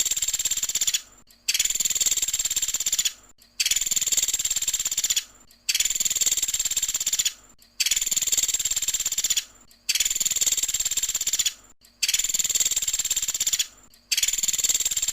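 Pelatuk sampit woodpecker giving its rapid rattling 'tembakan' call, a fast high trill lasting under two seconds. The call repeats after short gaps about every two seconds, about seven times.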